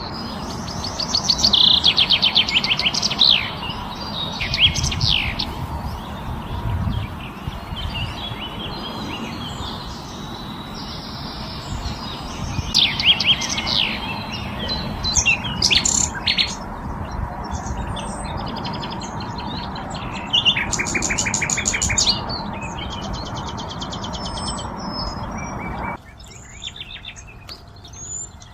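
Several songbirds chirping and singing, with quick repeated trills and short sweeping notes, over a steady background hiss that cuts out suddenly near the end.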